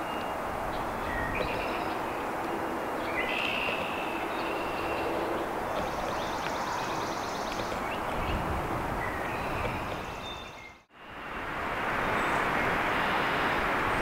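Short bird chirps over a steady outdoor background hiss. The sound drops out for an instant near the end and comes back as a louder, even noise.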